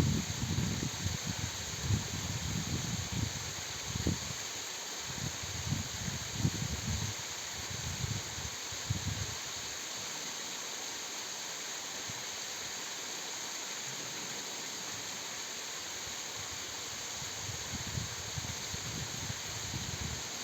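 Waterfall: a steady, even rush of falling water. Irregular low rumbles come and go through the first half and again near the end.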